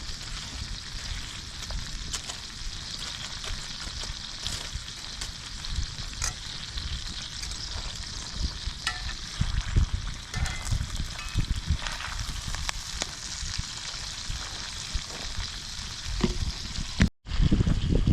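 Food frying in a pan, a steady crackling sizzle with small pops, over an uneven low rumble. The sound cuts out completely for a moment about a second before the end.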